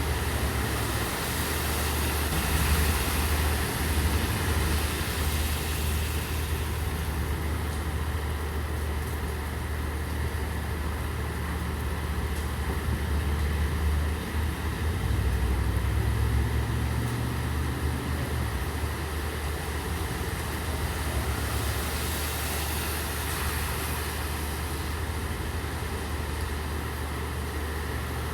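Steady rain with a low engine rumble running under it. The hiss of tyres on the wet road swells twice, near the start and again past the middle.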